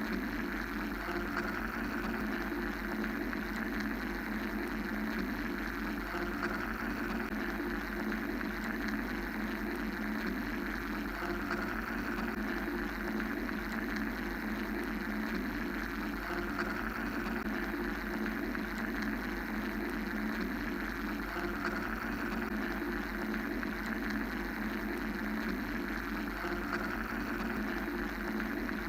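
Steady mechanical white-noise drone in even bands, a low rumble, a dense mid hum and a brighter hiss higher up, with no rhythm or breaks. The upper hiss slowly swells and fades every few seconds.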